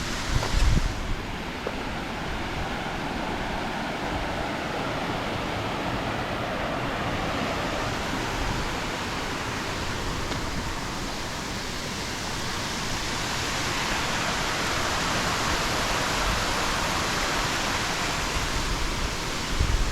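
Rushing water of a mountain stream, a steady hiss that grows louder and fuller about two-thirds of the way through. A brief low thump comes just after the start.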